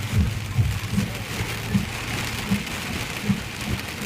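Heavy rain drumming steadily on a car, with a low thud repeating about every three-quarters of a second.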